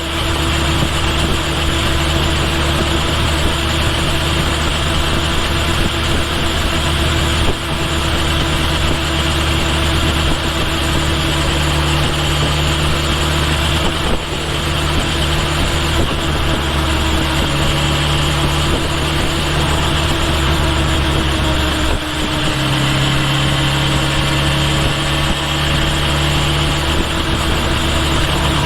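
Kawasaki Ninja H2 SX's supercharged inline-four running steadily under way, picked up near the rear of the bike over wind and road noise. The engine note shifts about three quarters of the way through.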